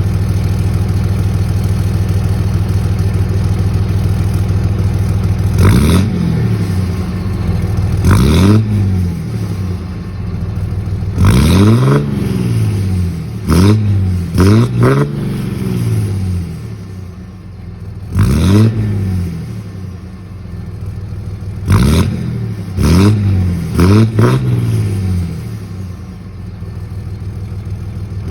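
Tuned 5.9 Cummins straight-six turbodiesel idling steadily through a stock exhaust with a tip. About six seconds in, it is blipped about ten times: short revs that rise and fall back to idle, several in quick pairs.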